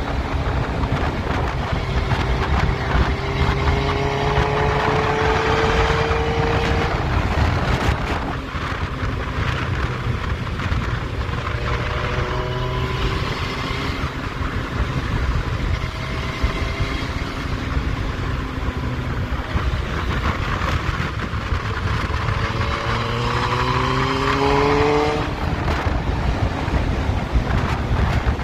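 Yamaha FZS1000 Fazer's inline-four engine pulling under way, with steady wind and road rush. The engine note rises twice as it accelerates, about three to seven seconds in and again near the end, and each time it drops away.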